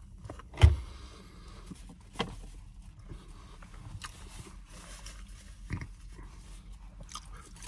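A person chewing a burrito close to the microphone, with wet mouth clicks and smacks. A sharp thump about half a second in is the loudest sound, and two smaller clicks come later.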